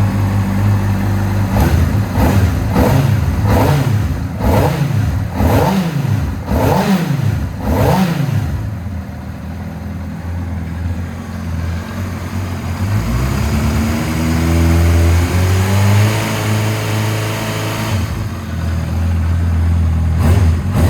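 Honda CBR600RR inline-four engine through a Yoshimura RS-R slip-on muffler, blipped quickly from idle about seven times, then revved in one slow rise, held and dropped back to idle. Quick blips start again near the end.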